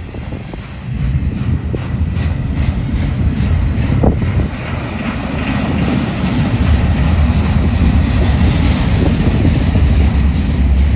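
Double-stack intermodal freight cars rolling past close by: a heavy, steady rumble of steel wheels on rail with scattered knocks and clanks, growing louder about a second in and again around six seconds in.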